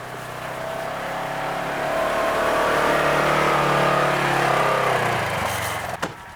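Farm buggy engine revving up as the buggy pulls away, getting louder and rising slightly in pitch, then easing off about five seconds in, with a sharp click just after.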